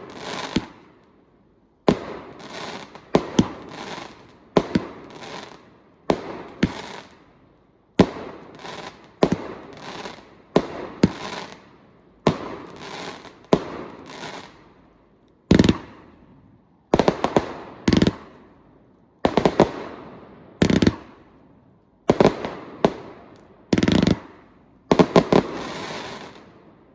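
Fireworks display: a rapid run of loud bangs, roughly one or two a second, each trailing off in a crackling decay.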